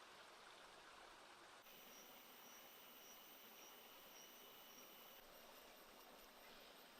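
Near silence: a faint steady hiss, joined about a second and a half in by faint high-pitched tones, one of them pulsing about twice a second.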